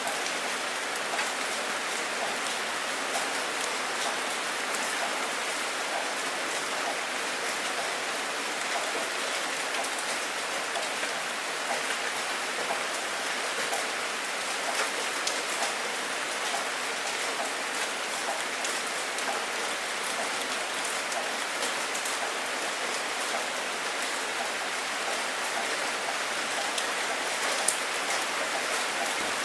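Steady rain falling, with the crackle of many individual drops hitting a surface. No thunder.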